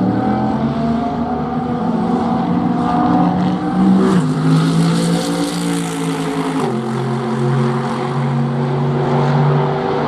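Racing car engine running loud on the circuit. Its pitch drops in two steps, about four seconds and about six and a half seconds in, at each gear change.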